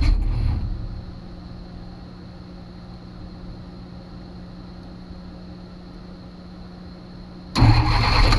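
1967 Kaiser M715's starter cranking the engine, which turns over without firing because there is no spark at the points. The cranking stops about a second in, leaving a faint steady hum, and starts again near the end.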